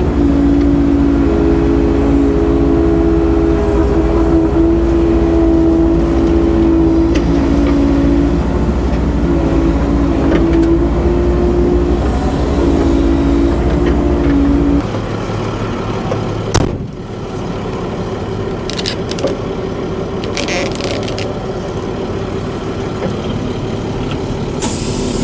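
Excavator diesel engine running under load, with a steady hydraulic whine for the first fifteen seconds or so. It then drops suddenly to a quieter, lower run, with a single knock a couple of seconds later.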